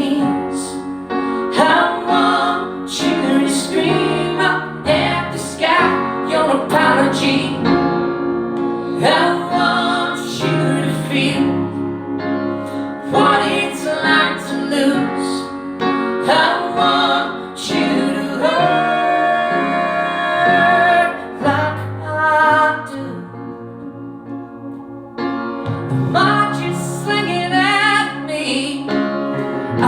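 Live song performance: a high singing voice over piano accompaniment, the music easing quieter for a few seconds about three-quarters of the way through.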